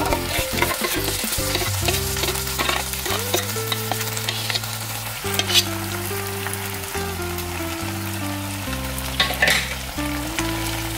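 Chicken pieces sizzling in hot ghee in a non-stick pan as thick cashew-almond gravy is poured and spooned over them, with a couple of sharper clicks about halfway and near the end. Soft background music with slow held notes plays underneath.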